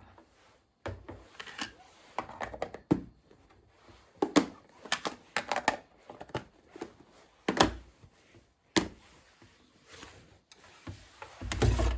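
Irregular knocks and clatter of kitchen handling, such as meat and utensils being moved about. Near the end a tap is turned on and water runs into the sink.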